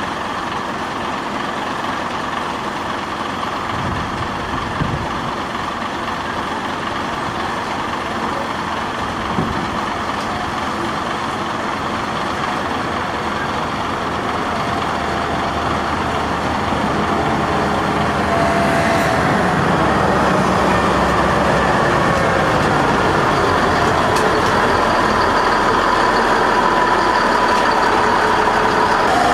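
Rack railway train noise: a steady mechanical running sound that grows louder in the second half as another train's diesel locomotive and carriage come up and pass close alongside. A faint whining tone shifts in pitch as it nears.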